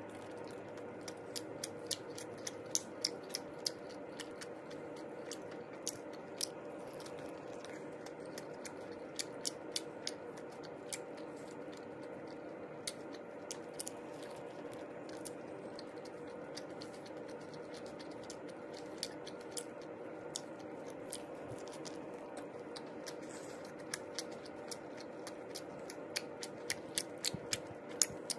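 Close-up chewing and biting of a Spam, egg and rice sandwich wrapped in seaweed: scattered sharp, crunchy mouth clicks in clusters, busiest near the start and the end, over a steady low hum.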